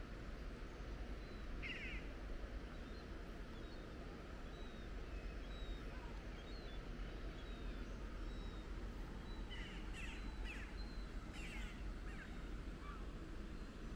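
Birds calling over a steady low background rumble: a short harsh call about two seconds in and a cluster of harsh calls around ten to twelve seconds, with faint thin high chirps in between.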